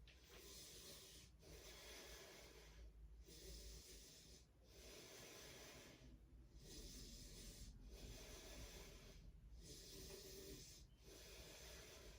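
Faint, slow, even breathing, each breath in or out lasting a second or two, with brief pauses between.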